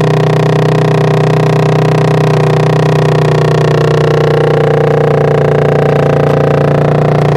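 Moped engine running loudly at a steady idle through a homemade tin-can muffler.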